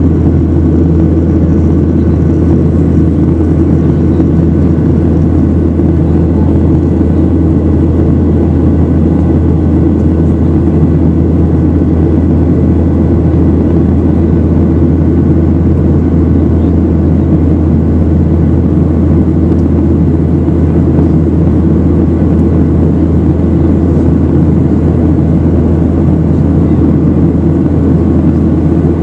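Steady, loud rumble of jet engines and airflow heard inside an airliner's passenger cabin, holding even throughout.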